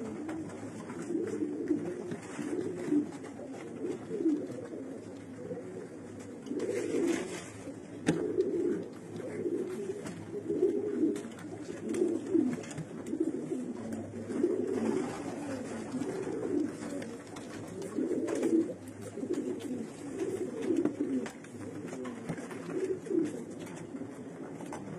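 Racing pigeons cooing, a run of low throaty coos repeated about once a second in a small enclosed space.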